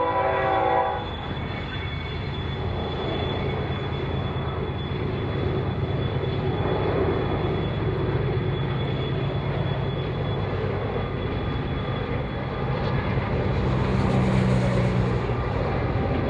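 A train horn chord cuts off about a second in. A train then runs past with a steady, heavy rumble of engine and rolling noise.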